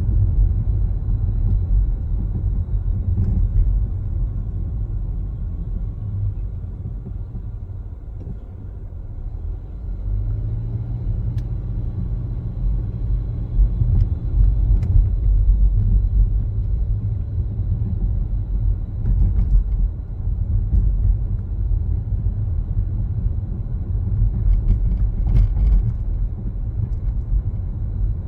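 Car driving, with a steady low rumble of road and engine noise. It eases off about eight seconds in, then picks up again with a rising engine tone as the car accelerates.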